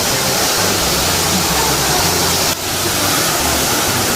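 Saeng Chan waterfall, which falls through a hole in the rock, rushing as a loud, steady roar of falling water, with a brief dip about two and a half seconds in.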